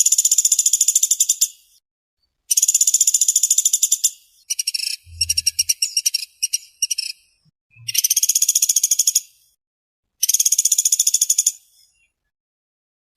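Pelatuk beras (pelatuk sampit), a small woodpecker, giving rapid, tightly packed high trills in about five bursts of a second and a half each, with short pauses between them; the middle one comes broken into shorter stuttering pieces.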